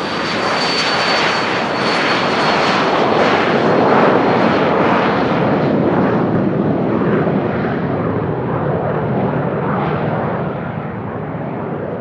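Cessna 560 Citation Ultra's twin JT15D turbofans passing on the runway: a rush of jet noise with a high turbine whine, loudest about four seconds in, then fading as the jet moves away.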